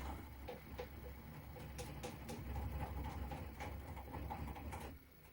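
A drill working into the head of a stuck, rusted screw to drill it out: a low rumble with scattered ticks and scrapes, stopping abruptly about five seconds in.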